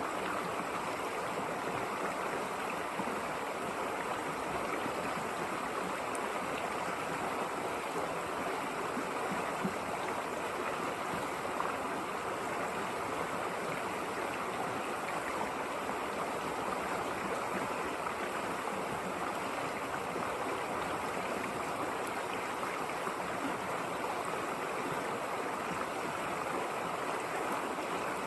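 River water flowing and rushing over rocks: a steady, even rush with no breaks.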